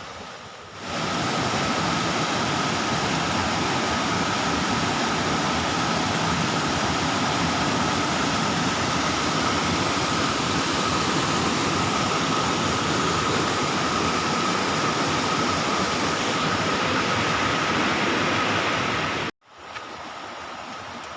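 Bomburu Ella waterfall, a steady rush of falling water. It starts about a second in and cuts off abruptly near the end, leaving a quieter steady noise.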